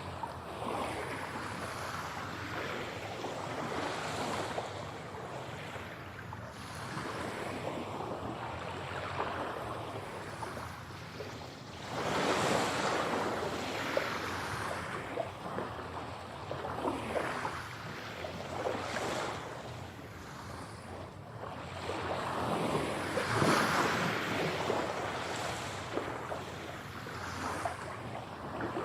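Ocean waves washing in and drawing back in slow surges, with bigger waves breaking about twelve seconds in and again around twenty-three seconds in.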